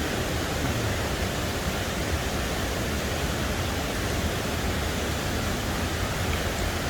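Waterfall rushing steadily, swollen with rainwater and running in full flow.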